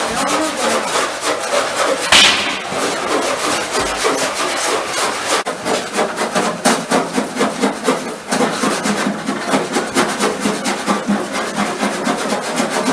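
Hand scraping in fast, repeated strokes, rasping and rubbing as old paint is stripped from the steel body of a small diesel locomotive, with one sharper scrape about two seconds in.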